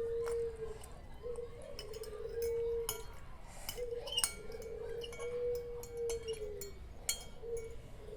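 A bird's repeated, drawn-out calls, each held about a second on one steady pitch with short breaks between, over light clinks of utensils against a bowl.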